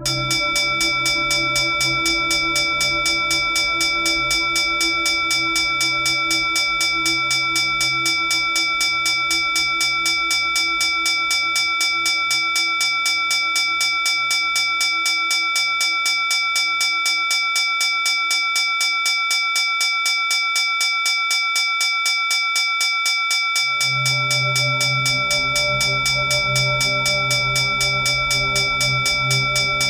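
Puja handbell (ghanti) rung rapidly and without pause, its high ringing tones sustained under the fast strokes. A lower, deeper ringing layer fades away through the middle and comes back suddenly about two-thirds of the way in.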